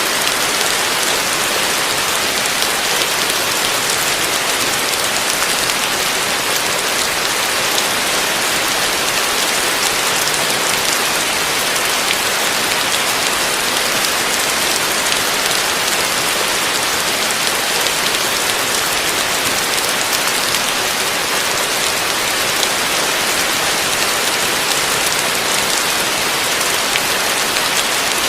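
Heavy rain falling steadily, a dense, even hiss of drops on surfaces without let-up.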